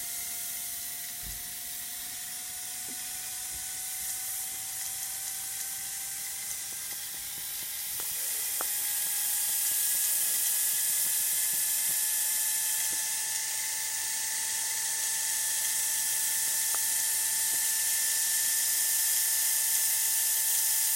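Whizzer toy steam engine running: a steady hiss of steam with a whine that slowly climbs in pitch as the engine gathers speed, and a few faint clicks.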